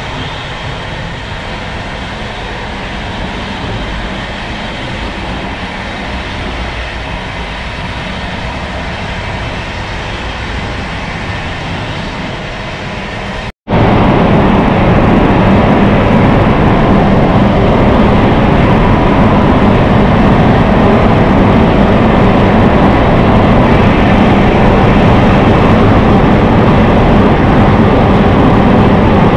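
Passenger train running at speed: a steady muffled rumble inside the coach vestibule, then after a cut a much louder steady rush of rolling and wind noise with a deep hum.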